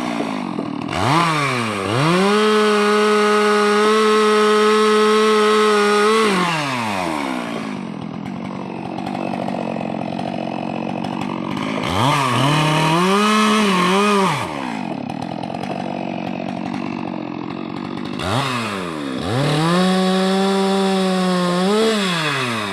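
Chainsaw cutting a rubber tree, its engine revving up to full throttle three times and dropping back to idle between. The high pitch holds steady through the first run, then wavers and dips during the second and third runs.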